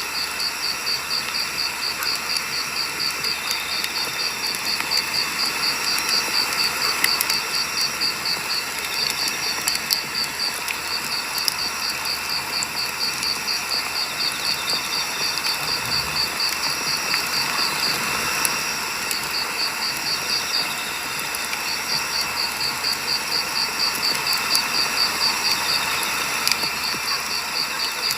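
Firewood burning in a campfire with sparse crackles and pops, under a high, evenly pulsing insect chirp of about three or four chirps a second that stops briefly a few times.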